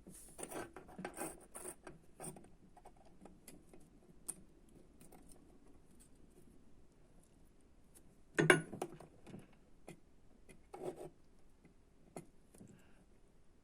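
Scattered clicks, rattles and rustles of small hard parts and hand tools being handled on a workbench during electronics kit assembly, with a louder clatter about eight and a half seconds in and a shorter one near eleven seconds.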